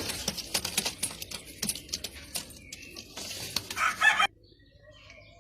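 A rooster crows loudly near the end, cut off abruptly after under a second, over a background of bird clucking, scratching and rustling.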